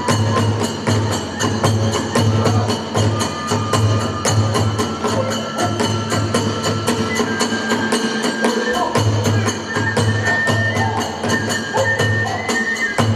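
Hiroshima kagura accompaniment: a large drum beating a steady rhythm of about two strokes a second under hand cymbals clashing, with a bamboo flute playing held high notes. The drum drops out briefly about eight seconds in, then picks the beat up again.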